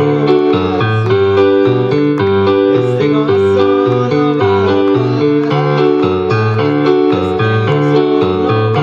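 Keyboard music in a piano voice: an upbeat tune of repeated chords over a bass line that moves in quick steps, with no singing.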